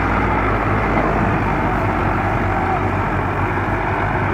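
Tractor diesel engine running steadily with a low, even drone.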